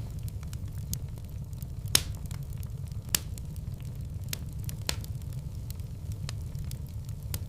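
Fireplace fire crackling: a steady low rumble of flames with scattered sharp pops, two louder ones about two and three seconds in.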